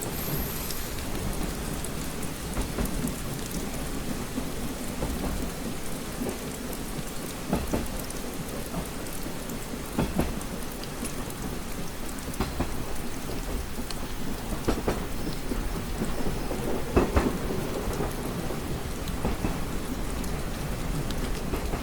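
Steady rain on a window with a low rumble underneath, and scattered drops ticking sharply against the glass, a few louder ones around halfway through and again later.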